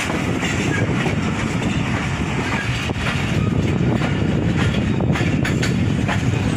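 Passenger train coach rolling out of a station, heard from its open door: a steady rumble of wheels on rail. From about three seconds in, short clicks from rail joints and points come through as it gathers speed.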